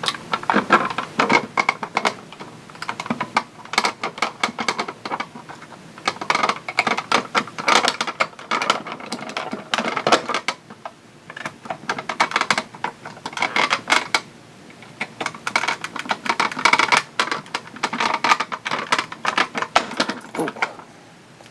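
Irregular clicking and scraping of hard plastic and metal as corroded, leaked batteries are worked loose from a toy's battery compartment.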